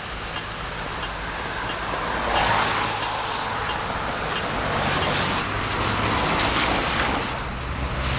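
Road vehicle noise: a steady rush of engine and tyres with a low hum, and a regular faint ticking about one and a half times a second.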